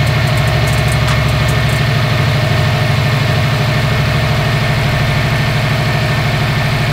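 Subaru WRX STI's newly installed 2.5-litre turbocharged flat-four engine idling steadily on its first run after the engine swap.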